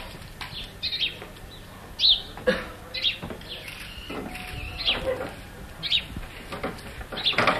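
Small birds chirping in repeated short, falling chirps, about two a second, with a few knocks mixed in.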